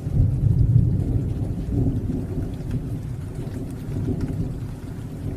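Rain falling with a continuous low rumble of thunder, loudest in the first second and easing slightly after, with faint scattered drop ticks above it.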